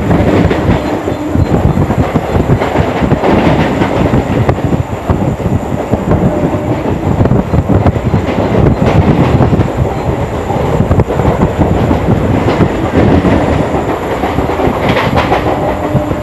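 Electric suburban local train running, heard from inside the coach at its open doorway: a loud, continuous rumble and rattle of the wheels on the track, with frequent short knocks.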